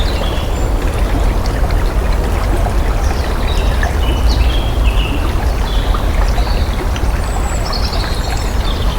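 Steady rush of flowing water, like a stream, with birds chirping in short calls throughout.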